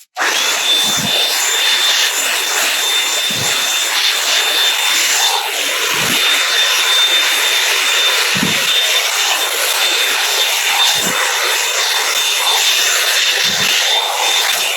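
Revlon One-Step hot-air brush dryer running: a steady rush of blown air with a constant high whine from its motor, with soft low thuds about every two and a half seconds.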